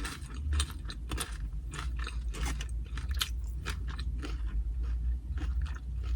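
A person chewing crunchy tortilla chips loaded with carne asada, a crisp crunch about twice a second amid wetter chewing.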